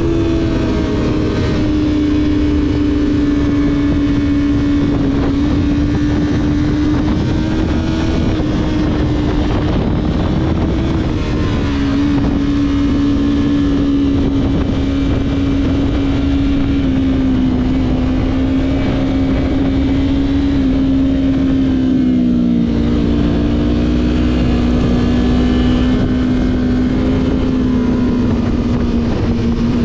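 Sport motorcycle engine running steadily under way, its note held at an even pitch that dips slightly a few times and rises again near the end, with wind rumble on the microphone.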